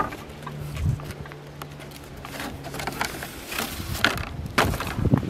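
Footsteps on a woodland path as irregular crunching steps, with wind buffeting the microphone.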